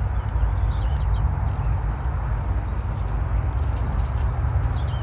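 Steady low rumble of wind on the microphone, with a few faint bird chirps high above it and some light ticks.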